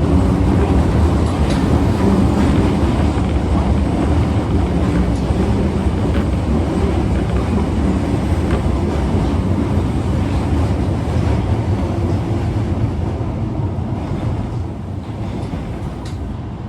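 Osaka Metro 22 series subway car 22962 running, heard from inside, a car known for making an unusual noise; a loud, steady rumble and hum of wheels and motors that eases a little near the end.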